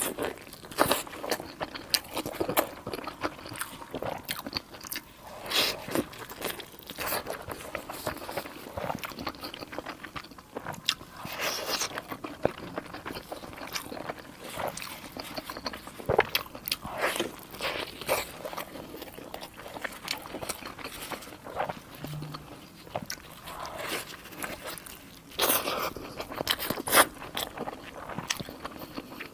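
Biting and chewing steamed dumplings, a run of irregular short mouth clicks and chews.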